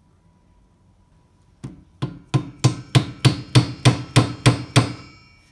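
Hammer blows on metal, about eleven strikes settling into a steady beat of roughly three a second, the struck part ringing after each. They are blows to knock loose a part that seems to be pressed on.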